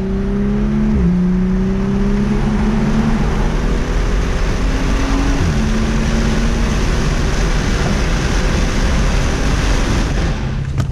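BMW M235i's N55 turbocharged straight-six accelerating through the gears on a muffler-bypass exhaust. The engine note climbs and drops back at shifts about one, three and five and a half seconds in, then gives way to a steady rush of road and wind noise.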